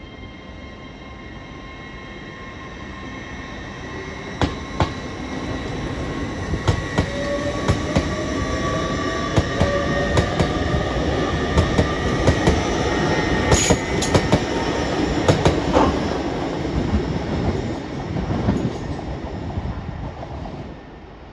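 Hull Trains class 802 bi-mode train pulling away and passing, a rising electric traction whine over the wheel rumble, with its wheels clicking over the rail joints and points. It grows louder to a peak about two-thirds through, then fades as it moves off.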